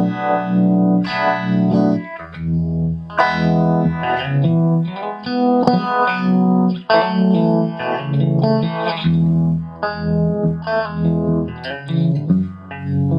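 Electric guitar playing strummed chords through a Shere Sound Whirligig analog stompbox set to its phase effect. The chords are struck about every one to two seconds and ring out between strums.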